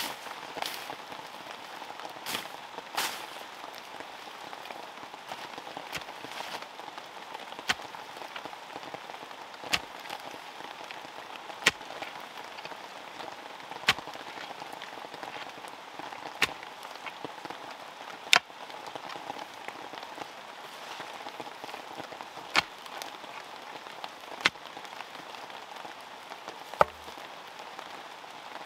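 Rain falling steadily, with a single sharp click every two seconds or so standing out above it.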